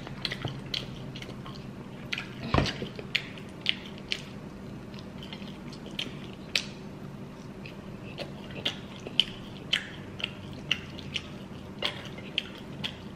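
Close-up eating sounds: chewing barbecue chicken wings, with irregular wet mouth clicks and smacks. One louder thump about two and a half seconds in.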